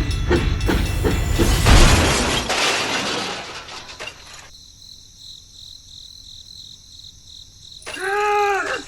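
Rhythmic chugging that gives way, about a second and a half in, to a loud crash-like noise that fades over a second or two; near the end comes a short pitched sound that rises and falls.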